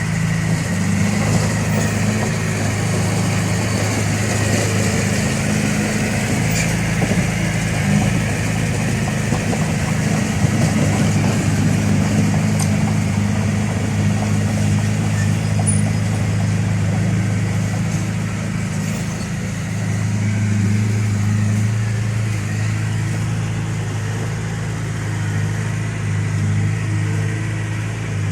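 Heavy diesel engine of working earth-moving machinery running steadily, a low, even drone whose note shifts slightly about twenty seconds in.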